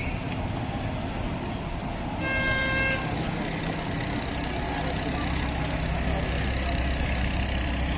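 A single short horn toot, under a second long, about two seconds in, over steady outdoor background noise. A low steady engine hum comes up about halfway through.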